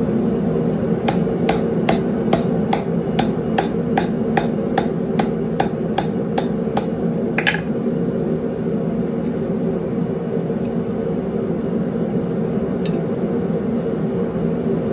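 Blacksmith's hammer striking hot steel on an anvil: about fifteen ringing blows at a steady two to three a second, which stop about seven seconds in. A single knock and a couple of light taps follow, all over a steady low drone.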